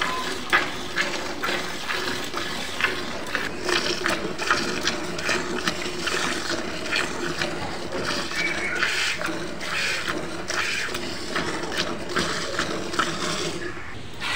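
Milk squirting into a pail as a cow is milked by hand with a full-fist grip on her long teats, in an even rhythm of about two squirts a second.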